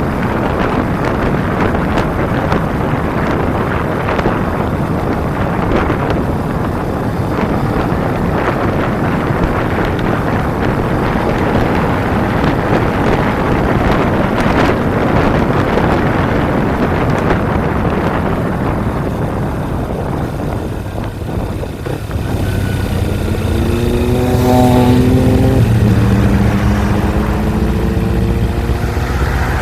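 Wind buffeting the microphone as a Kawasaki Ninja 250's parallel-twin engine runs at speed underneath. About 22 seconds in the wind eases and the engine is heard accelerating, its pitch rising, breaking off at an upshift and climbing again.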